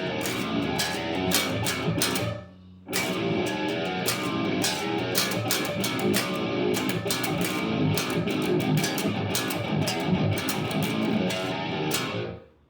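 Seven-string electric guitar, a TW Smith BTMN, playing metalcore riffs through a Positive Grid Spark 40 amp, with sharp picked attacks. The riff stops briefly about two seconds in, resumes, and dies away at the end.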